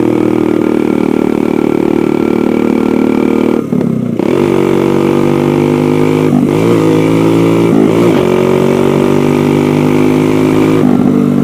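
Dirt bike engine running loud under way. The note dips briefly about four seconds in, and it breaks and resettles several more times.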